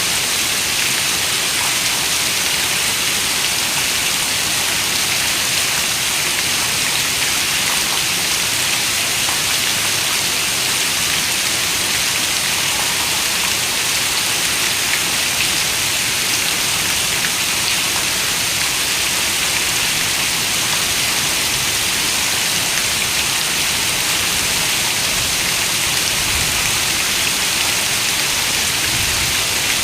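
Steady rain: an even, unbroken hiss, strongest in the high register, with no thunder or other events.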